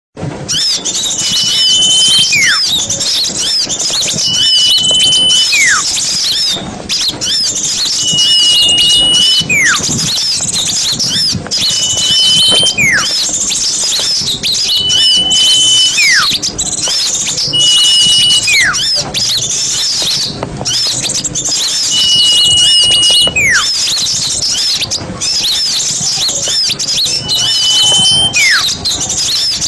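A flock of small birds chattering and twittering noisily and without a break, with a whistle repeating roughly every two seconds: one held high note, then a note sliding down. This is a bird-lure recording meant to draw in forest birds.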